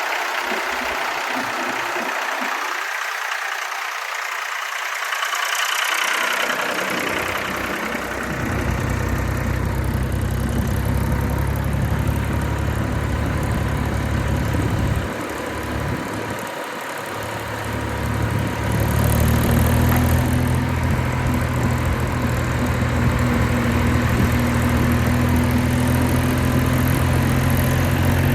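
Tractor diesel engine running. Its low, even throb comes in about a quarter of the way through, drops away briefly near the middle, then comes back louder.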